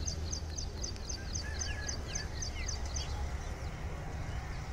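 Birds calling: a quick series of short, high chirps, about four a second, that stops about three seconds in, with a few lower, falling notes mixed in around the middle. A steady low rumble lies underneath.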